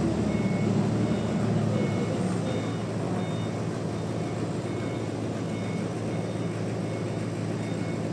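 Sawmill machinery running: a steady engine-driven hum, a little louder in the first two seconds, with brief faint high tones now and then.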